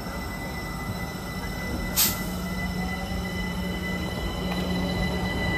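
Electric multiple-unit passenger train running alongside the platform, with a steady high whine over the running noise. A single sharp squeal-like click about two seconds in is the loudest moment.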